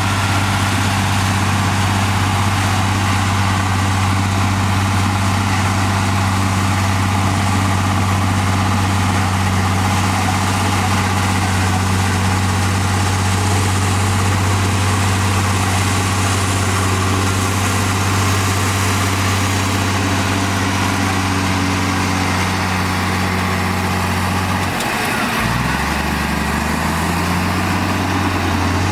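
Komatsu D58E bulldozer's diesel engine running steadily. About 25 seconds in, the engine note drops sharply, then climbs back up over the next three seconds.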